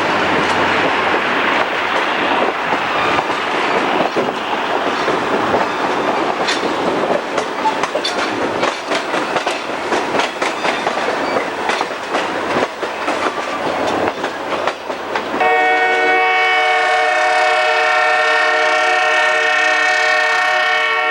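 Passenger train running along the track, with a loud rushing noise and many sharp clicks of the wheels over the rails. About fifteen seconds in, the train's horn sounds one long, steady multi-tone chord.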